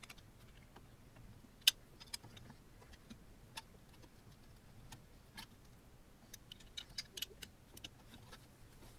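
Scattered sharp clicks and light taps of small metal hardware and tools being handled during kit assembly. One louder click comes just under two seconds in, and a quick run of clicks comes around seven seconds.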